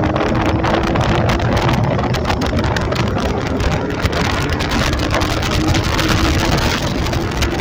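Motorcycle engine running at a steady pace while riding, its tone creeping slightly upward, under a loud rush of noise with many short crackles.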